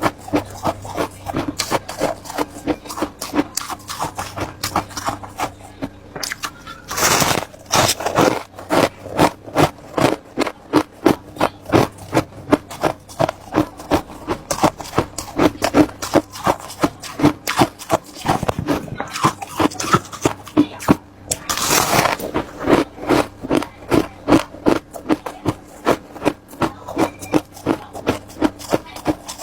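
Close-miked chewing of hard ice: a rapid, steady run of crisp crunches, a few a second, with two louder, longer crunches partway through, where fresh pieces are bitten off.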